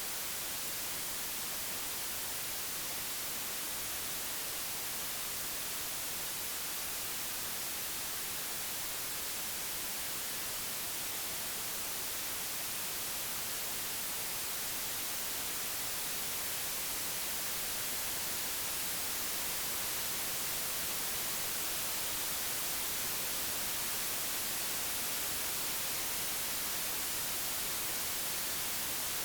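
Computer-generated white noise: an even, steady hiss across the whole frequency range, with no tones or events, swelling very slightly in level over the second half.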